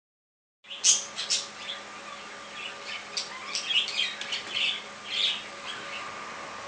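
Pet budgerigars chattering: a busy run of short, sharp chirps and squawks that starts just under a second in, over a faint steady hum.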